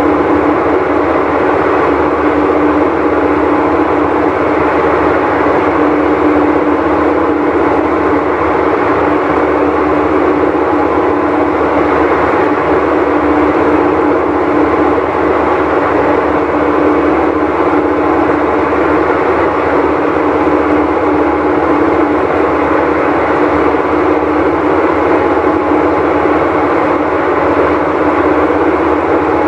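Whirlpool Cabrio top-load washer running with a loud, steady noise and a constant hum through it, typical of a failed tub bearing.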